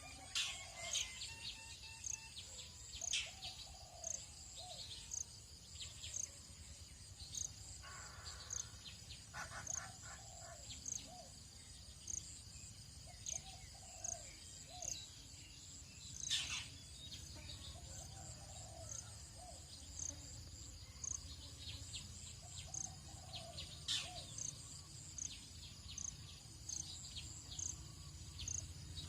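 Tropical dawn chorus: several birds calling and chirping over a steady high-pitched insect drone, with short sharp chirps repeating about once a second and groups of lower curved calls. A faint low rumble runs underneath.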